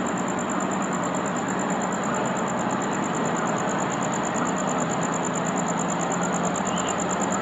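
Diesel locomotive engine idling with a steady low hum and rumble. A steady high-pitched pulsing tone sits above it.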